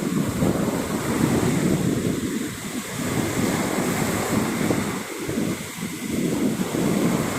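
Sea surf washing onto a beach, mixed with wind buffeting the microphone, rising and falling in gusts with brief lulls.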